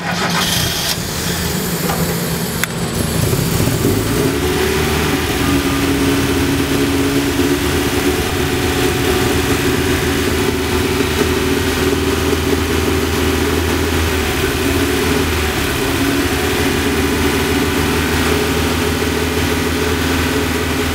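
First-generation Mazda Miata's four-cylinder engine starting, then raised a few seconds in to a steady fast idle. It is held there while Sea Foam cleaner is drawn into the intake at the throttle plate. The engine shuts off at the very end.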